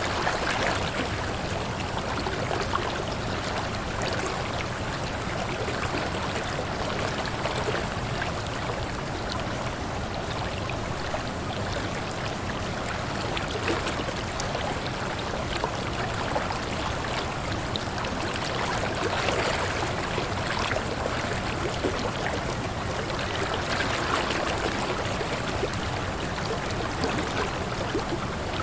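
Waterfall: a steady, continuous rush of falling and splashing water.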